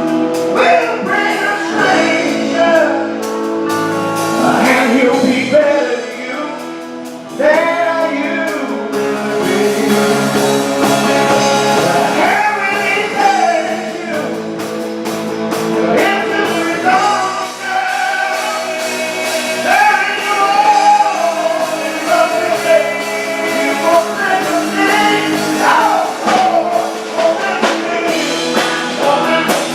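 Male vocal group singing with a live band accompaniment.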